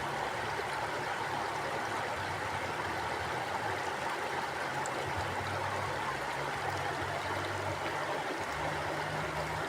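Mountain stream flowing steadily, an even rush of water with light gurgling.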